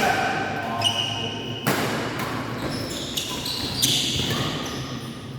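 Badminton rally in an indoor hall: a few sharp racket hits on the shuttlecock, with shoes squeaking on the court floor, in an echoing hall.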